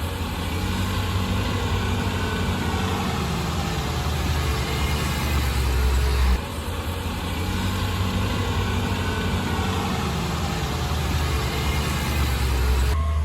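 Heavy construction machine's diesel engine running steadily under a low drone, its sound changing abruptly about six seconds in and again near the end.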